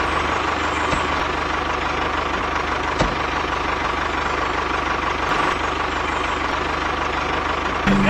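Steady engine-like running noise from a DIY mini tractor, with a low, even pulse and a faint steady tone, like a small engine idling. A single sharp click comes about three seconds in.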